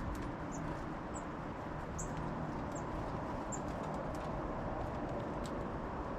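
Small songbirds at a feeder giving about five short, very high chirps, with scattered sharp clicks over a steady low background rumble.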